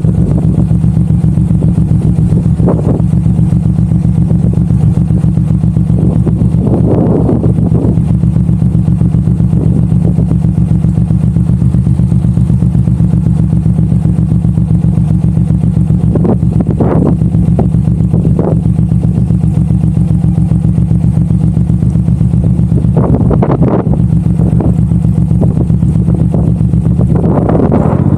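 Suzuki M109R's 1783 cc V-twin engine running at a steady cruising speed, its pitch holding constant, with a few brief rushes of wind noise over it.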